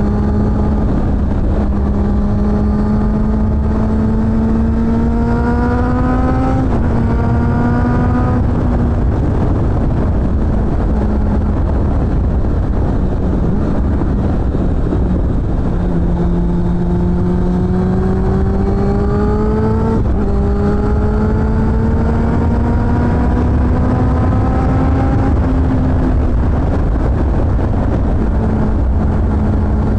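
Suzuki GSF600 Bandit's inline-four engine through a BOS aftermarket exhaust, pulling through the gears: its pitch climbs under acceleration and drops back at each gear change, a few times over, over a steady low wind and road rumble.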